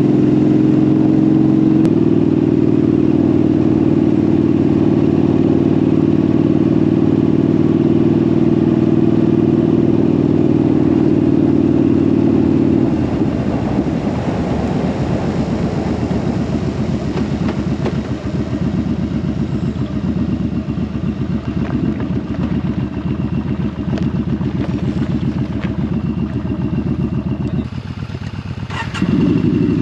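Motorcycle engine running at steady cruising revs. About halfway through the revs drop to a lower, fast pulsing beat. Near the end it dips briefly, then picks back up to a steady pull.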